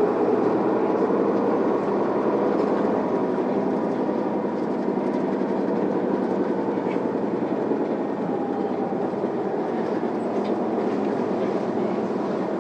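Isuzu Erga city bus under way, heard from inside the passenger cabin: steady engine and road noise with a faint whine that drifts slightly in pitch.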